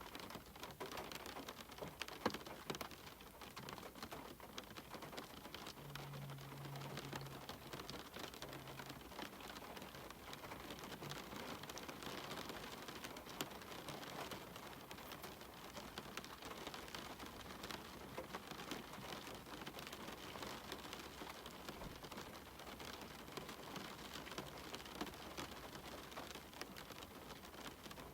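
Steady rain falling, an even hiss dotted with many individual drops tapping, one of them sharper about two seconds in.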